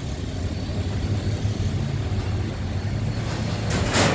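Truck engine idling with a steady low hum, and a loud burst of hiss rising near the end.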